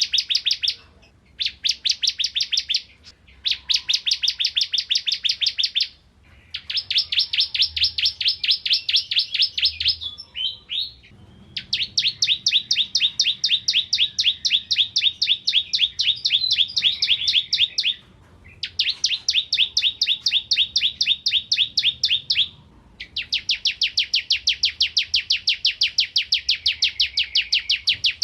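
Bar-winged prinia (ciblek kristal) singing: long, fast trills of evenly repeated high notes, in phrases of a few seconds each with short breaks between them.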